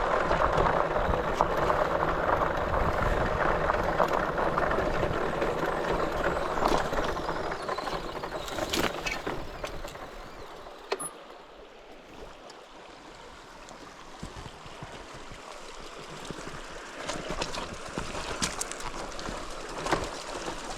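River water rushing, loud for the first several seconds, then fading to a quieter flow with scattered knocks and clicks.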